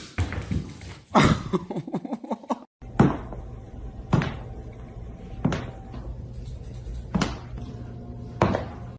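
A series of five sharp knocks, about one every second and a quarter.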